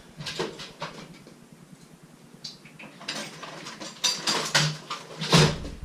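Metal hand tools being handled and rummaged through: a series of sharp clanks and clicks, loudest in the last two seconds.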